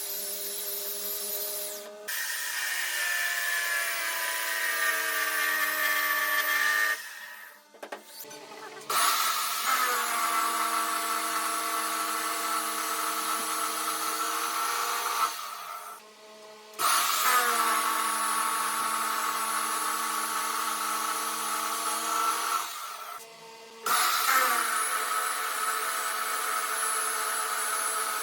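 An electric power tool motor running with a steady whine in four stretches of several seconds each, starting and stopping abruptly with short lulls between.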